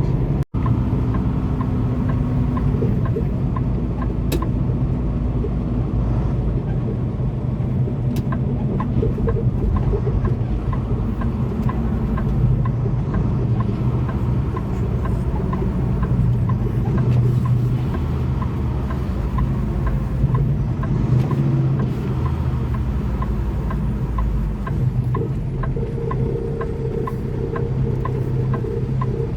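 Semi-truck running, a steady low engine drone with road or running noise, cut by a very brief dropout near the start.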